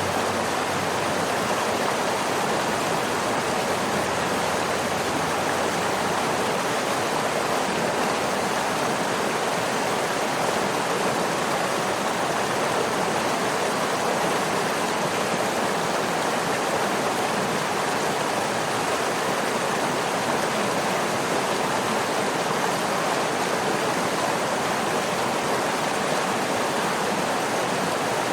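Waterfall: steady, even rush of falling water with no breaks or changes.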